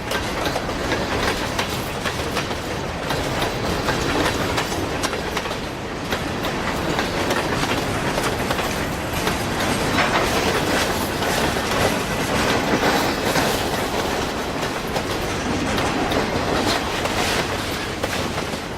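Freight train cars rolling steadily past, their steel wheels clicking over the rail joints in a continuous clickety-clack.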